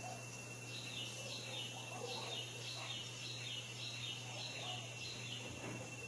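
A bird calling a quick series of short, high, falling notes, about two a second, over a steady thin high tone and faint background hiss.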